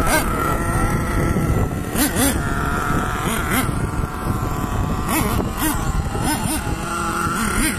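Small nitro engines of RC monster trucks running, with short revs that rise and fall in pitch over a steady buzz.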